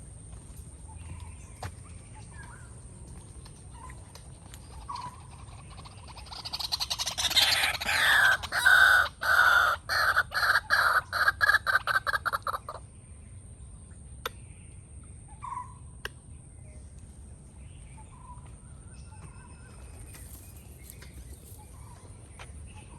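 A bird gives a loud run of harsh, repeated calls for about six seconds, around two a second, then stops. Soft chirps of other birds and a steady high thin tone sound around it.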